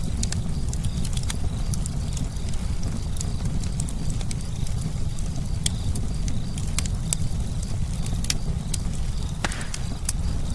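Campfire crackling, with frequent sharp, irregular pops over a steady low rumble.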